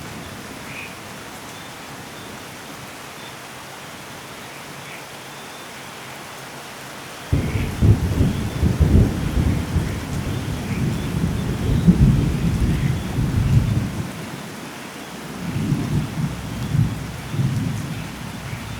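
Steady rain with a clap of thunder breaking in suddenly about seven seconds in and rumbling for several seconds, then a second, quieter rumble of thunder near the end.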